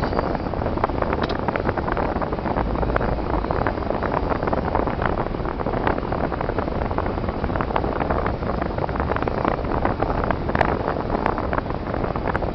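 Steady rumble and hiss of a car driving on snowy, icy roads: engine and tyre noise, with faint crackling throughout.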